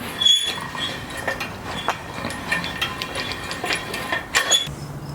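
Engine hoist load leveler being cranked to level a hanging engine: a run of irregular metallic clicking and clinking that stops near the end.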